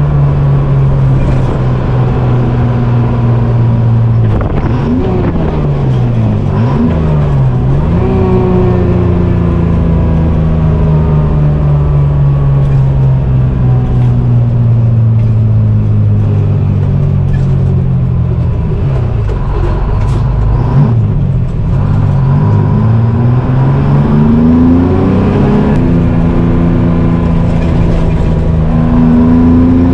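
Detroit Diesel engine of a GMC Crackerbox cabover semi truck running under load. Its pitch dips and climbs back three times in quick succession about five seconds in and again around twenty seconds in, as at gear changes, with steady pulling in between.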